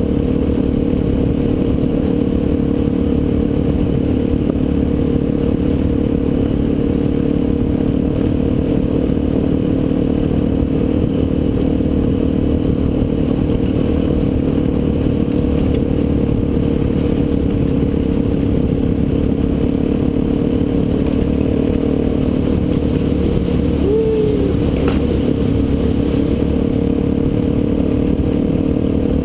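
Suzuki DR-Z400SM supermoto's single-cylinder four-stroke engine running at a steady, even speed while riding, with a rough rumble under it. Near the end there is one brief squeak.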